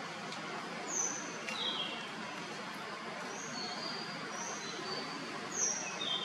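Forest ambience: a steady background hiss with a scattering of short, thin, high bird call notes, about ten of them. The loudest notes come about a second in and again near the end.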